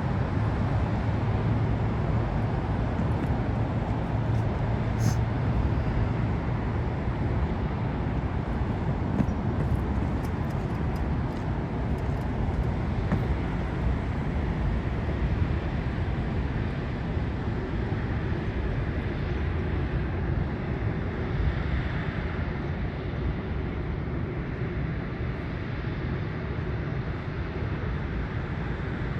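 Steady outdoor rumble of airport engine noise, jet aircraft and road traffic together, easing a little toward the end.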